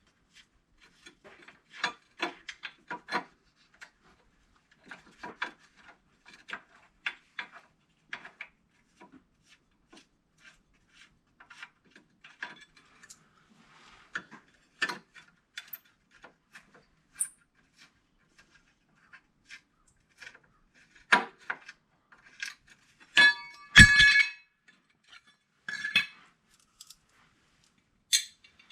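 Hand ratchet clicking in short runs as screws are backed out of an ATV skid plate, followed by a few loud metallic clanks and rattles near the end.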